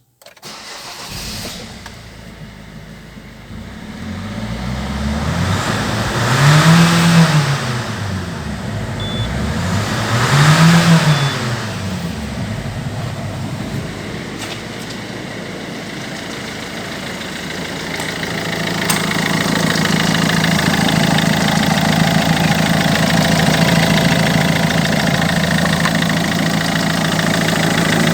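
Citroën HDi turbodiesel engine starting, then idling, revved up and back down twice in short blips a few seconds apart. Through the second half it runs louder and steady.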